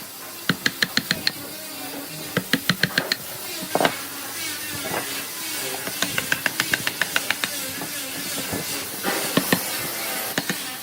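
Hammering: quick bursts of sharp taps, about six or seven a second, repeated several times with short pauses between, over a steady hiss.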